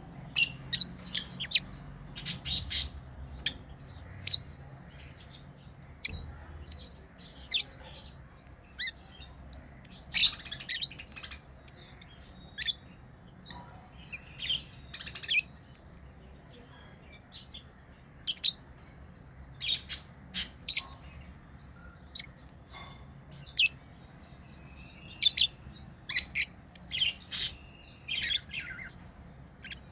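Pet lovebirds chirping in short, sharp, high calls at an irregular pace, with a few longer calls that drop in pitch.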